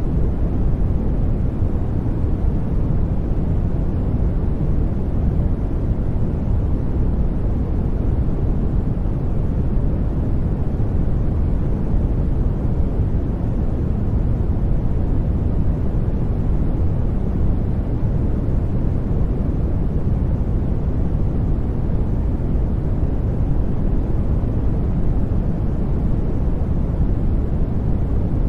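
Steady, even sleep-aid noise, deep and rumbly, heaviest in the low range and thinning toward the highs, with no changes, breaks or events.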